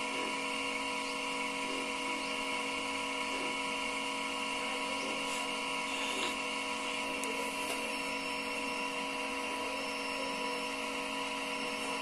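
IFB front-load washing machine running: a steady motor whine made of several fixed tones, with a few faint clicks about halfway through.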